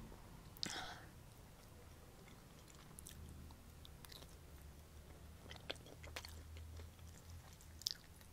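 Close-miked chewing and biting as a person eats a slice of Spam, with faint, scattered short wet mouth clicks. A sharper click comes about a second in.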